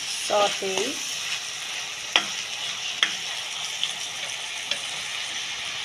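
Sliced onions, garlic and whole spices frying in hot oil in a wok, with a steady sizzle while a steel spatula stirs them. The spatula knocks sharply against the pan twice, about two and three seconds in, with a few lighter taps after.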